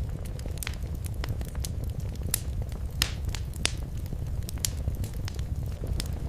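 Wood fire crackling in a fireplace: irregular sharp pops and snaps, a few louder ones near the middle, over a steady low rumble of the flames.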